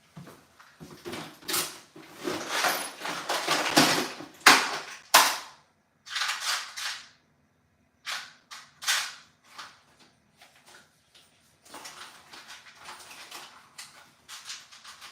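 Irregular sharp knocks, clicks and short scrapes of hard objects being handled, in uneven clusters with brief pauses between them.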